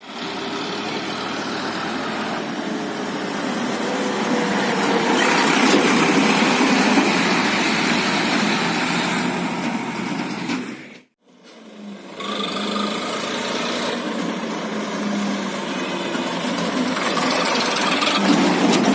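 Sonalika DI 47 RX tractor's three-cylinder diesel engine running steadily, with the sound dropping out for about a second just past the middle.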